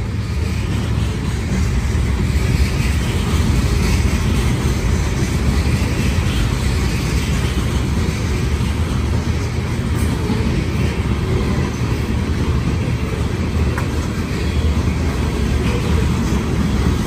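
Covered hopper cars of a freight train rolling past close by: a steady rumble of steel wheels on rail.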